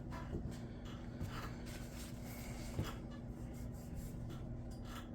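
Faint, irregular scratching strokes of a knife blade drawn over a sharpening stone, over a steady low hum.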